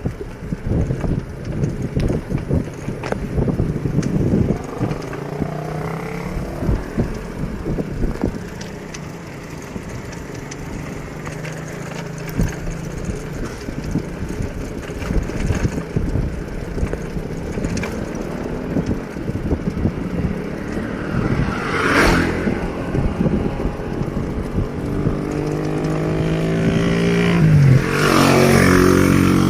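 Wind and road rumble from a ride on a bicycle, with frequent small knocks. Near the end a motor vehicle's engine comes close and passes, its pitch dropping suddenly as it goes by.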